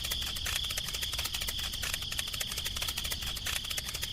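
Insects chirring: a steady, high, rapidly pulsing buzz.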